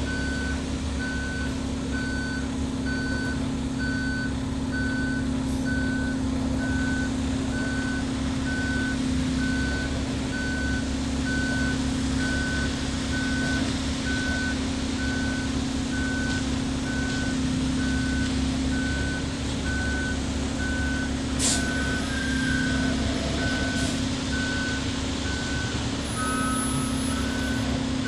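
Concrete mixer truck's backup alarm beeping steadily, about once a second, over the truck's diesel engine running.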